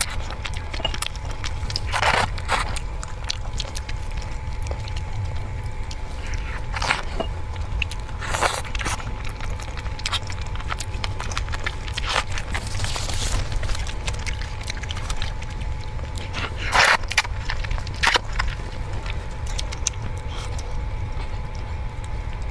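Someone eating: scattered short bites and crunches every second or two, over a steady low rumble and a faint steady whine.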